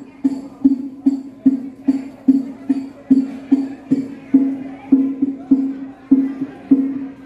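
Music with a steady, evenly spaced drum beat, about two and a half strokes a second, and a tambourine-like jingle on top, played loud over a large 10,000-watt horeg sound system.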